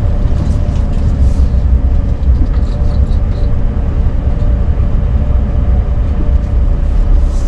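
RV driving along, with a steady low engine and road rumble heard inside the cab.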